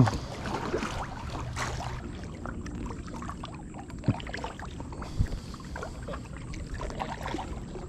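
Kayak being paddled: the paddle dipping and water splashing and lapping around the hull, with scattered small irregular knocks.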